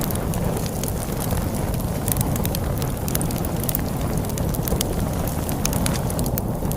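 Wood fire crackling with frequent irregular sharp pops and snaps, over a steady low rumble of storm wind.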